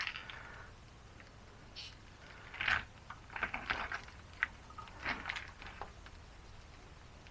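Irregular plastic clicks and squelches from a small hand pump and gear-oil bottle as gear oil is pumped into a differential, with a sharp click at the start.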